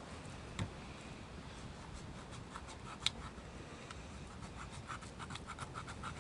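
Utility knife cutting through raw pork loin: faint scratching and rubbing with scattered small clicks, one sharper click about three seconds in.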